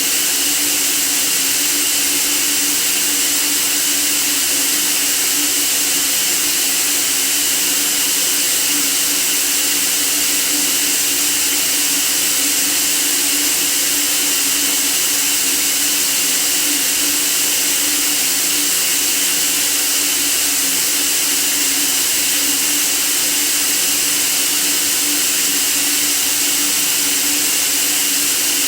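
Steady white noise for sleeping: an unchanging hiss, strongest in the high frequencies, with a steady low hum underneath.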